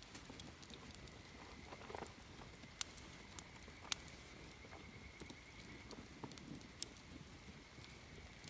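Campfire wood crackling, with scattered sharp pops over a low hiss; the loudest pops come about three and four seconds in, and another near seven seconds.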